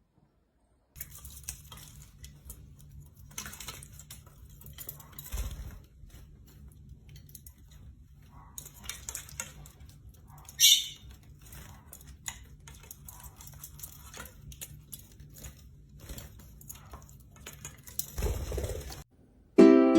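A small bird tapping and pecking at a hard surface: quick irregular clicks and taps, with one short rising chirp about halfway through.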